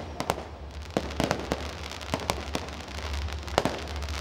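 Fireworks going off: an irregular run of sharp bangs and crackles, several every second.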